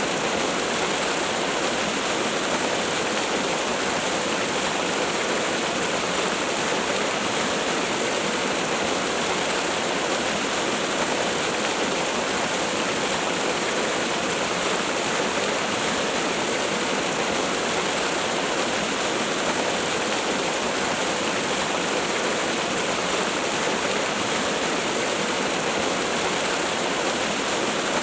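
Waterfall: a steady, even rush of falling water that doesn't change.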